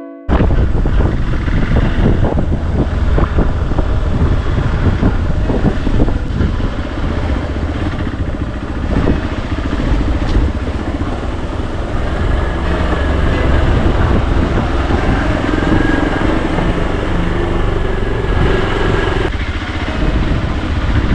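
Motorcycle engine running while being ridden, with wind noise and frequent knocks and rattles from a rough, unpaved road.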